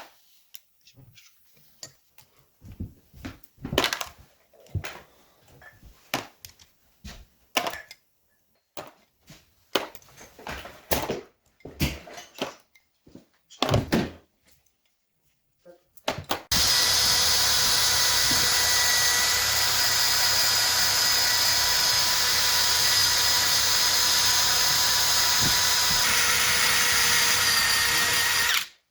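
Scattered knocks and clicks of tools and parts being handled. Then a power tool runs steadily for about twelve seconds and cuts off abruptly.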